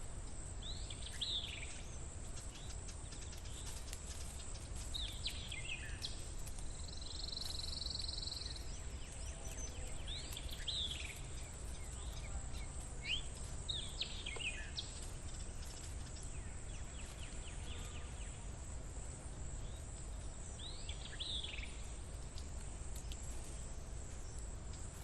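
Outdoor ambience with a bird giving a short, falling chirp every few seconds, over a steady high-pitched hiss and a low rumble.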